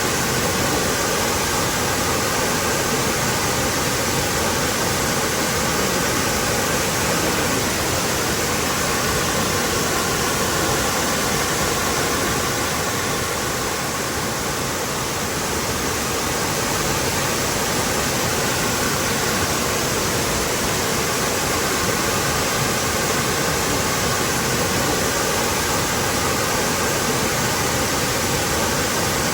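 Waterfall: water falling and splashing in a steady, unbroken rush, dipping slightly in level about halfway through.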